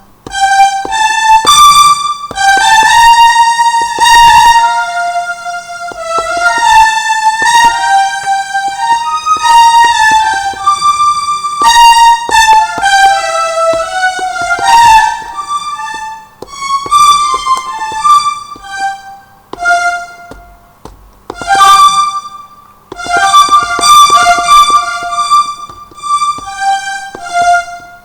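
Roland M-DC1 sound module playing a melodic, violin-like synth patch, one note at a time in short phrases with brief pauses between them. Sharp taps of the controller pads are heard at the starts of many notes.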